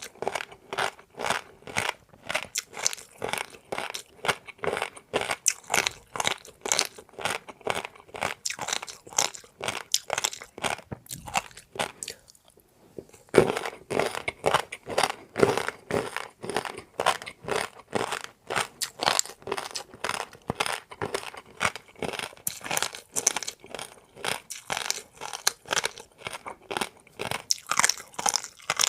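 Close-miked chewing of crisp food, a fast, continuous run of crunches with a brief pause about twelve seconds in.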